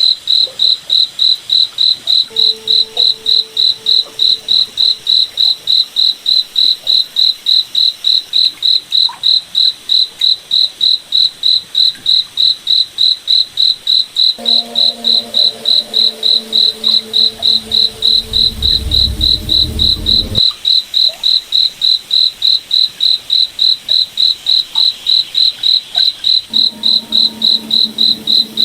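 Crickets chirping steadily in a fast, even rhythm, about three high-pitched chirps a second. Fainter lower tones come and go beneath them, with a brief low rumble that cuts off suddenly about two-thirds of the way in.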